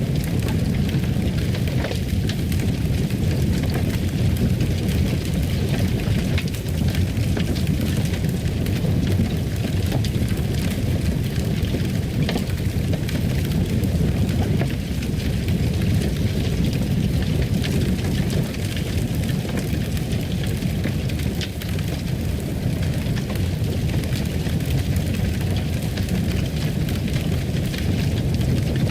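Fireplace fire crackling: many small pops and snaps over a steady low rush of flame.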